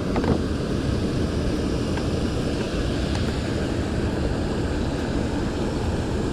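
Wind buffeting the action camera's microphone: a steady low rumble with no clear pitch.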